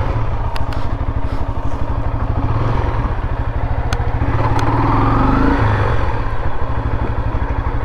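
Honda CRF 250L's single-cylinder four-stroke engine running under way, rising in pitch about three and a half seconds in and dropping back about two seconds later. A few sharp clicks are heard over it.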